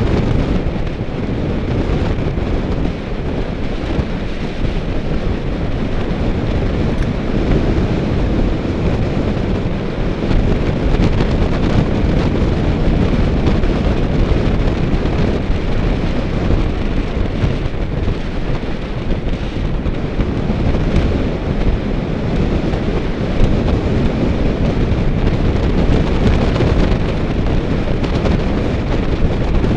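Steady wind rush buffeting the microphone of a camera carried on a road bicycle at speed, mixed with road noise. It is heaviest in the low end and runs without a break.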